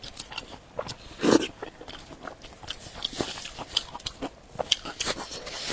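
Close-miked mouth sounds of a person biting and chewing pig head meat: irregular wet smacks and small clicks, with one louder bite about a second in.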